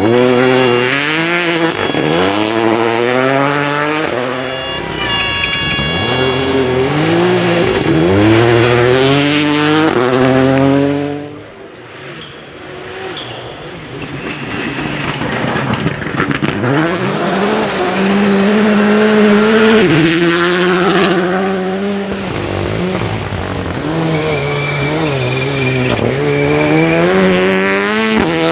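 Rally car engines at full throttle, the pitch climbing and dropping again with each quick gear change. The sound fades briefly about eleven seconds in, then picks up again as the engine revs rise and fall.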